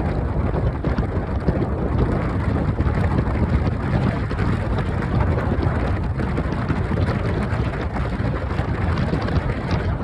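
Wind buffeting the microphone of a moving bike: a steady, dense rush of noise, heaviest in the low end. It drops away sharply just as it ends.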